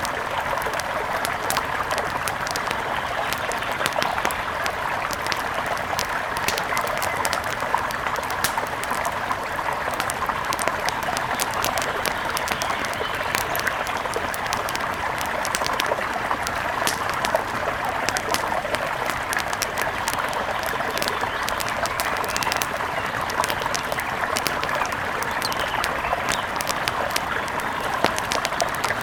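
A river rushing steadily, with a wood fire crackling over it in frequent small sharp pops.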